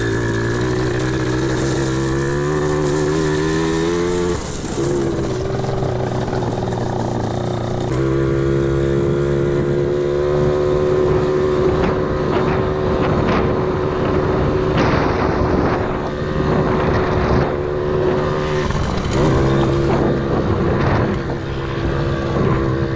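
Pit bike engine running in first gear under the load of pushing a second bike along, climbing in revs, easing off briefly about four seconds in, then holding a fairly steady pace with small dips.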